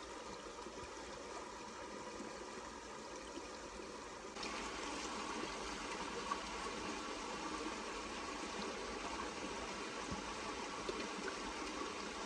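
Steady rushing water noise with no clear single events, stepping up abruptly to a louder level about four seconds in.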